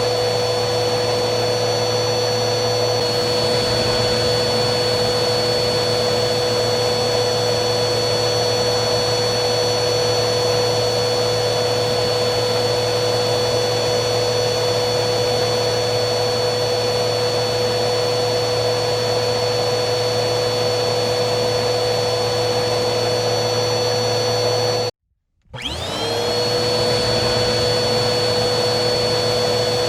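Vacuum cleaner motor running steadily with a constant whine over its airflow noise. About 25 s in, it cuts out abruptly for half a second, then the whine rises back up to full speed.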